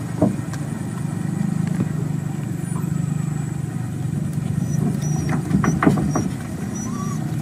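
Boat engine running steadily with a low drone, with a sharp knock just after the start and a few more knocks about five to six seconds in.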